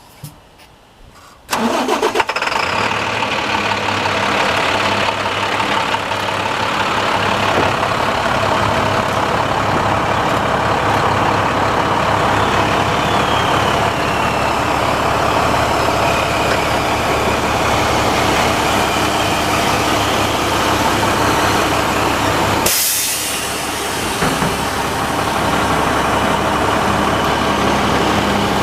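A 2013 International 4400 truck's diesel engine starts about a second and a half in and then idles steadily. About 23 seconds in there is a short sharp hiss, and the engine sound dips briefly after it.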